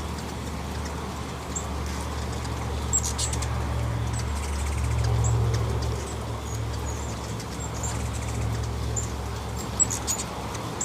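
Hummingbirds hovering close at a feeder: a steady low wing hum that swells around the middle, with short high chip notes scattered throughout.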